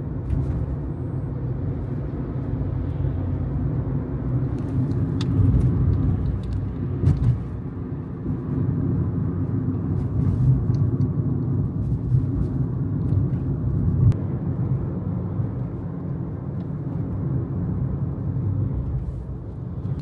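Steady low rumble of a car, heard from inside the cabin as it sets off and drives, with a few faint clicks.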